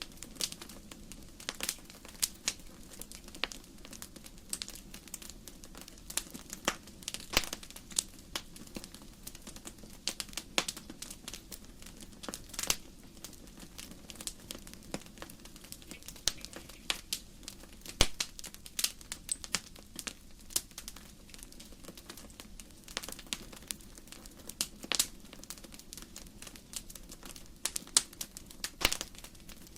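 Wood fire crackling in a fireplace: burning logs give irregular sharp pops and snaps over a steady soft hiss, with a few louder snaps scattered throughout.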